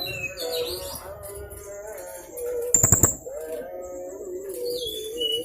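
Young blue-crowned hanging parrot (serindit) calling continuously: thin, high whistled notes and short trills, over a lower wavering tone. A quick cluster of sharp clicks about three seconds in is the loudest sound.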